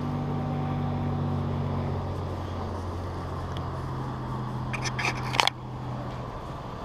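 A steady low mechanical hum. About five seconds in comes a quick run of sharp clicks, the last one loudest, and after it the hum is quieter.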